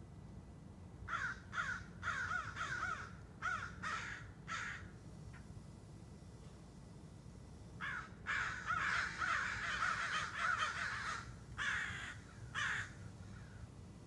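Birds chattering in the trees with quick, repeated calls that rise and fall. A run of separate calls comes in the first five seconds, then a dense overlapping chorus from about eight to eleven seconds, and a last couple of calls just after.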